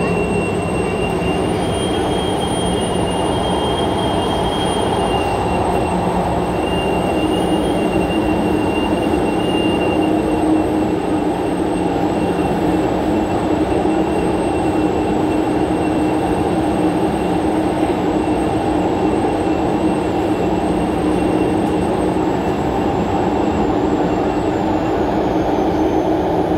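Onboard sound of an MTR SP1900 electric multiple-unit train running between stations: a steady rumble of wheels on rails and a thin high whine. The whine rises slightly about a second in and drops back near the end.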